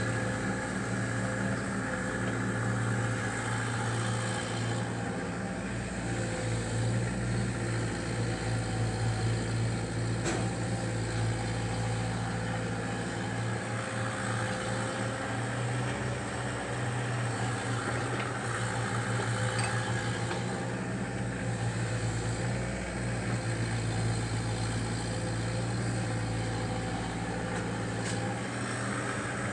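Diesel engine of a Caterpillar 305D mini excavator running at a steady speed.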